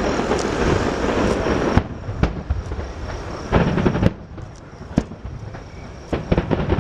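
Aerial fireworks going off. A dense, continuous crackle gives way after about a second and a half to single sharp bangs and quick clusters of cracks, twice in rapid bursts.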